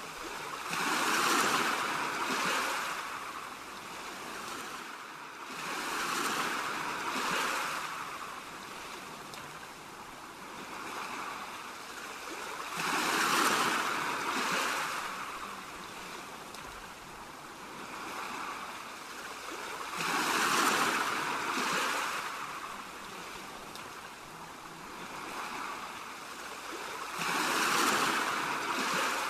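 Ocean waves breaking and washing in: the surf swells and ebbs, with five big surges about every six to seven seconds and smaller ones between them.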